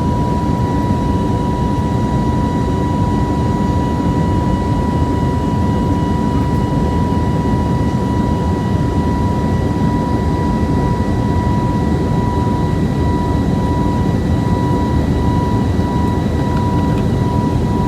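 Jet airliner cabin noise in flight: a loud, steady rush of engine and air noise, with a steady high whine on top.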